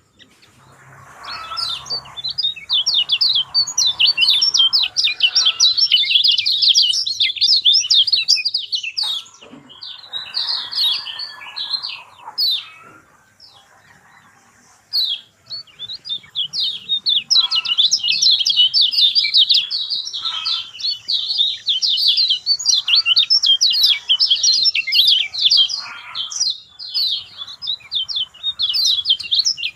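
Lemon-bellied white-eyes chattering in a dense, rapid twitter of high chirps (grongsengan), with a brief lull about halfway through.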